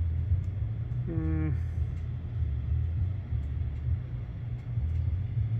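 Low, uneven rumbling background noise, with a man's short hum about a second in.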